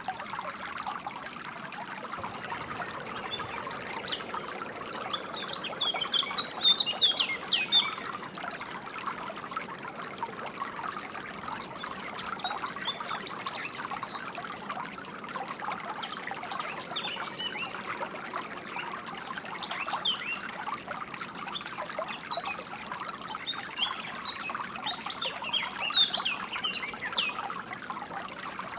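A small stream trickling steadily, with songbirds chirping in short clusters of quick high notes over it.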